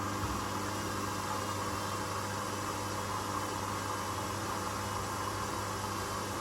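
Washing machines running, a steady hum with an even rushing whirr and no knocks or changes.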